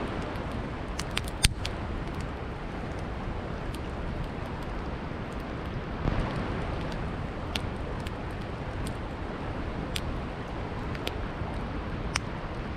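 Campfire crackling: burning wood pops sharply every second or two, with a quick cluster of pops and the loudest pop about a second and a half in, over a steady rushing river.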